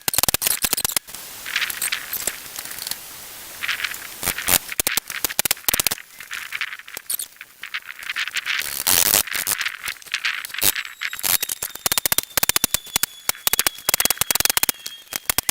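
Wire hardware cloth clattering and rattling as it is handled and fastened to the frame, a dense run of sharp clicks with short bursts of hiss now and then.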